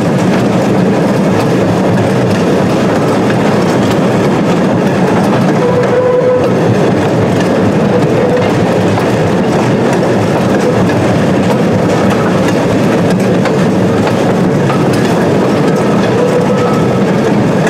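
Small excursion train running along the track, heard from an open car: the steady rumble and clatter of wheels on the rails, with a faint brief whine about six seconds in and again near the end.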